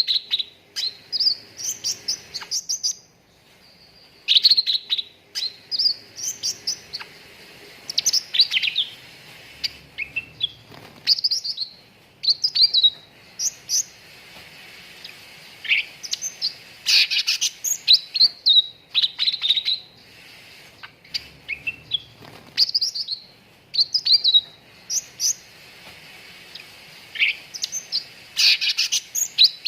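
Cucak ranting singing: short clusters of sharp, quickly sweeping chirps repeated every second or two, with a faint steady hiss beneath.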